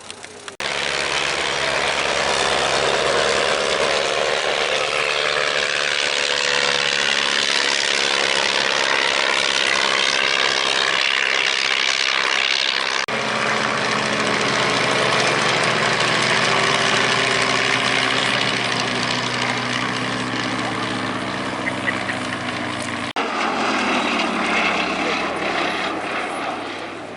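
Piston-engined propeller aircraft flying past, its engine running steadily with the pitch sliding slowly as it passes. The sound breaks off abruptly and resumes twice, about 13 and 23 seconds in.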